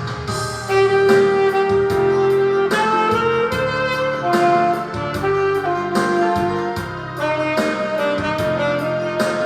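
Yamaha YAS-280 alto saxophone playing a slow melody in long held notes over a karaoke machine's backing track with a steady beat.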